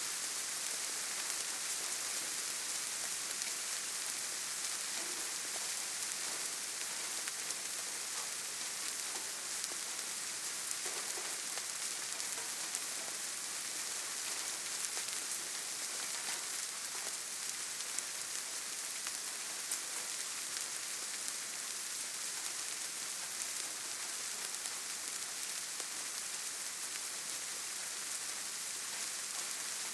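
Steady rain falling, a dense even patter of drops with no letup.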